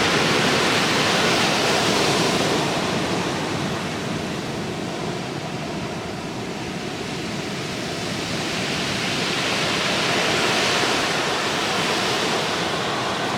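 Ocean surf breaking and washing in, a continuous rush that eases in the middle and swells up again about ten seconds in.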